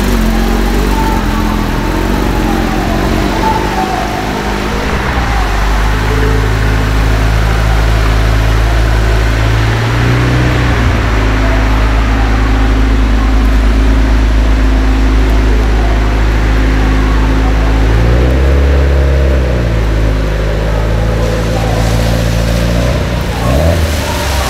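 A car engine running steadily, then revving up and back down twice, once about three-quarters through and again near the end.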